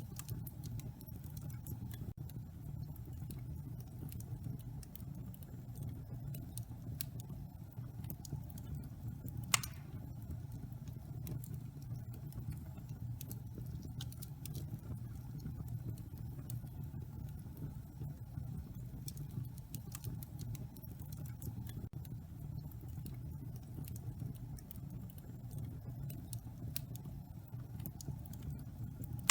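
Wood fire burning in a fireplace: a steady low rumble of flames with scattered small crackles, and one louder pop about ten seconds in.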